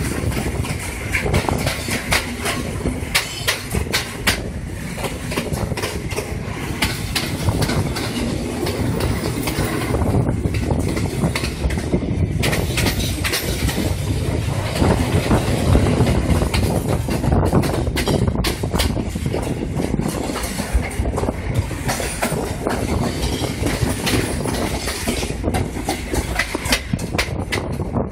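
Passenger train running along the track, heard at an open carriage door: a steady rumble with the wheels clicking and clattering over the rail joints.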